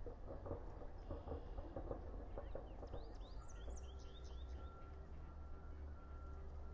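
Soft, rapid clucking knocks for about three seconds, then a short burst of high, falling bird chirps, over a steady low rumble and a thin steady tone.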